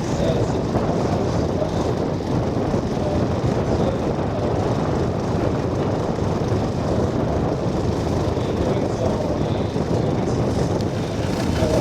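Steady low rumble of wind noise on the microphone, with no distinct engine or motor tone.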